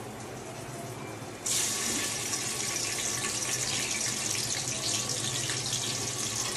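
Sliced onions dropped into hot oil in a pot, breaking into a sudden sizzle about a second and a half in, then frying steadily.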